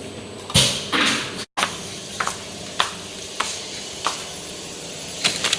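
Two loud bursts of hissing noise, a brief dropout, then a run of sharp clicks or knocks about every half second or so.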